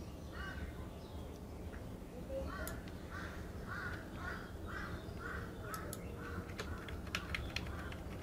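A bird calling over and over in the background, about two or three calls a second, over a steady low hum. A few faint clicks come near the end.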